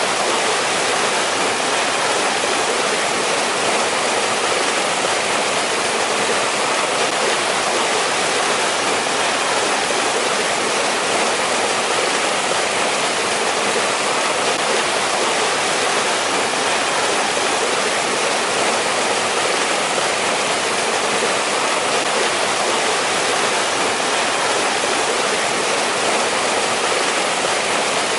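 Mountain stream rushing and splashing over rocks in a steady, unbroken hiss.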